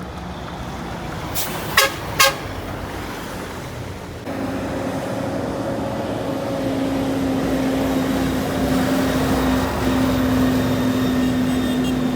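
Two sharp clicks, then a steady low drone from a truck engine that comes in about four seconds in and holds at an even pitch, stepping up slightly once, as the truck runs down a long mountain descent.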